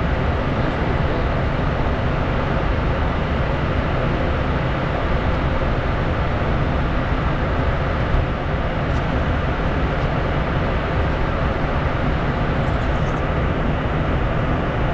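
Steady in-flight noise inside a Bombardier Challenger 350 business jet: a constant rush of airflow over the hum of its turbofan engines, unchanging throughout.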